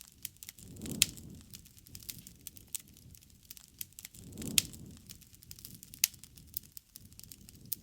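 Wood fire crackling: irregular sharp pops and snaps, with two soft low swells about a second in and past the middle, each carrying the loudest snap.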